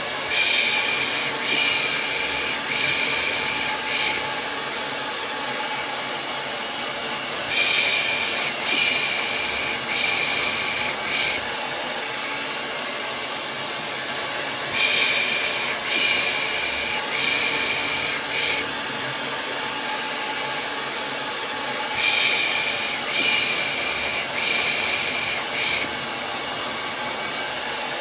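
Hair dryer blowing steadily. Over it, a person shushes 'pış pış' in groups of four, about one a second, with a new group every seven seconds or so. This is soothing white noise for lulling a baby to sleep.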